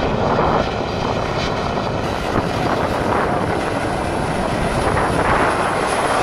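Airliner engines running loud and steady, a dense rush of noise, with a thin high whine joining about two seconds in.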